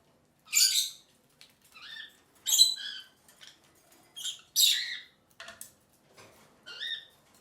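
Rosy-faced lovebirds giving shrill, squawky contact calls: three loud calls about two seconds apart, with softer chirps between them.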